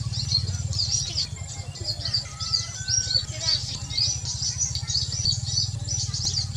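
Many small birds chirping, a dense run of short, quick high calls, over a steady low hum.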